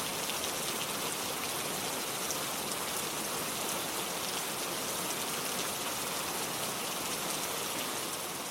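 Steady rain falling, a dense even hiss with fine patter of drops, beginning to fade out near the end.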